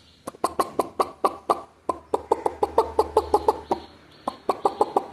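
Chicken clucking: a quick series of short clucks in three runs separated by brief pauses, the middle run the longest and fastest.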